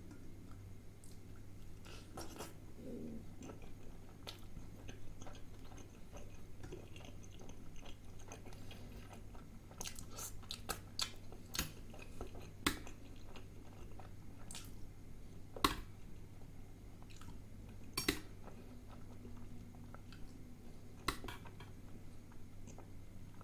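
Close-miked chewing of kulcha bread with curry, soft wet mouth sounds, broken by sharp clicks of a steel spoon against steel bowls several times, over a steady low hum.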